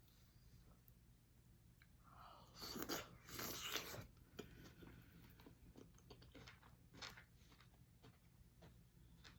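A person eating seafood boil close to the microphone: after a quiet start, loud crunching about two to four seconds in, then quieter chewing with small clicks.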